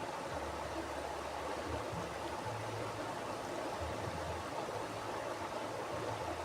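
Mountain river rushing steadily over rocks, with a low rumble underneath that comes and goes.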